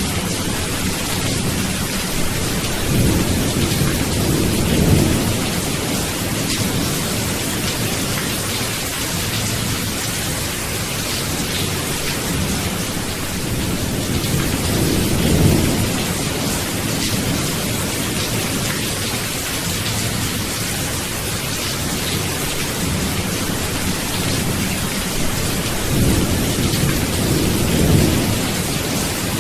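Steady heavy rain hissing, with rolling thunder: three slow low rumbles swell and fade, a few seconds in, around the middle, and near the end.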